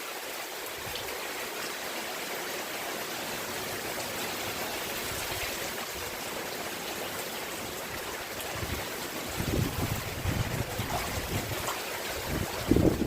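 Steady rain falling, an even hiss. From about ten seconds in, gusts of wind buffet the microphone with low rumbles.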